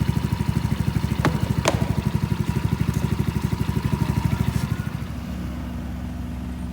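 Polaris Ace 150's small single-cylinder engine idling with an even, rapid pulse, freshly refilled with oil after an oil change; two sharp clicks come a little over a second in. About five seconds in the pulsing gives way to a smoother, slightly quieter hum.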